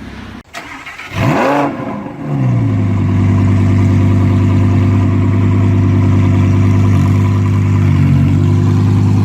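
Audi 5.2-litre V10 FSI engine starting up: it catches about a second in with a quick rev flare that falls away, then settles into a loud, steady idle.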